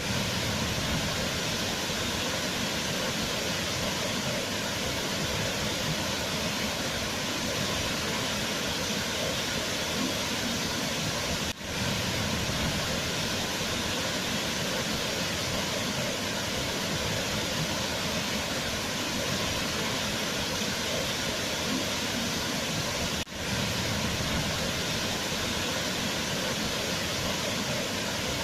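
A waterfall rushing steadily, as an even wash of water noise. The sound dips for a moment twice, about twelve seconds apart.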